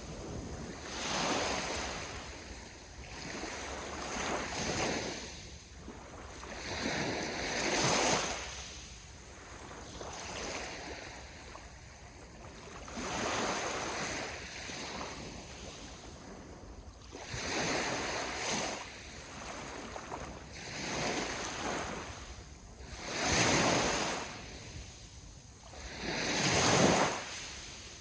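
Sea waves washing onto the shore, each one swelling into a hissing surge and falling away every few seconds, the strongest near the end.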